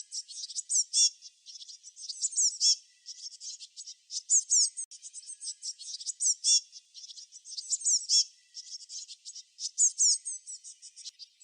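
Small songbirds chirping: rapid runs of high, short notes and quick sliding whistles, in phrases a second or two long with short gaps between them.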